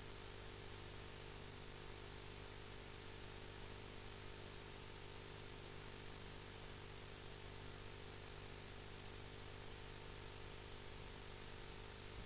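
Steady faint hiss with a low electrical hum and a thin high whine, unchanging throughout, with no distinct event: the recording's background noise.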